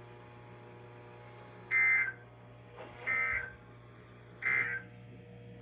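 NOAA Weather Radio's SAME end-of-message signal: three short, shrill digital data bursts, a little over a second apart, marking the end of the tornado watch message. A faint steady hum from the radio runs under them.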